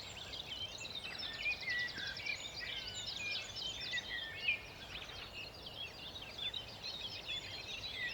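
Several songbirds singing at once: a dawn chorus of overlapping chirps, whistles and quick trills.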